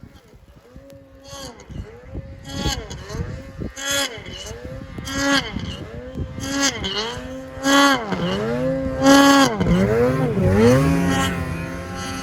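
Snowmobile engine revving again and again while working through deep snow, its pitch repeatedly dropping and rising back up, with sharp bursts about every second and a half. It grows louder as the sled comes closer, then cuts off abruptly.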